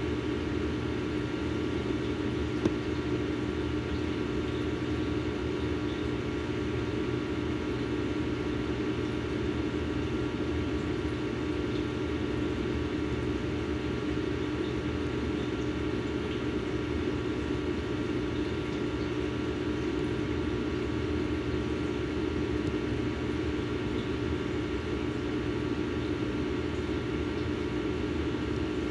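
Steady machine hum from a small motor: a low drone with a few fainter higher tones that does not change, and one brief click about three seconds in.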